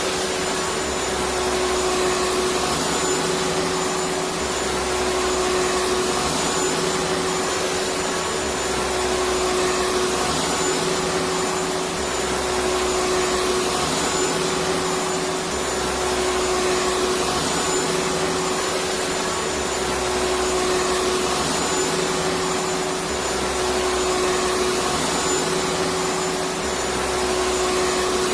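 Electric vacuum cleaner running steadily: an even motor-and-airflow rush with a constant hum tone, unchanging throughout.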